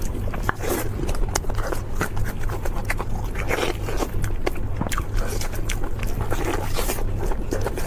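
Close-miked eating: a rapid run of crisp, crackling bites and chewing, over a steady low hum.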